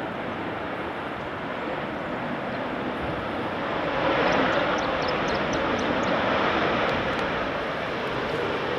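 Airliner engines running: a steady rushing noise that swells louder about four seconds in.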